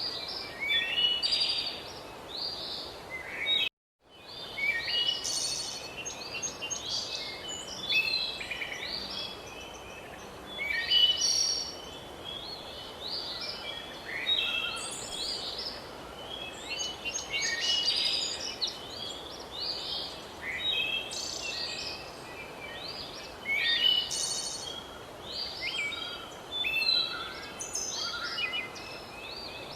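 A chorus of several birds singing and chirping over steady background noise. The sound cuts out completely for about half a second around four seconds in.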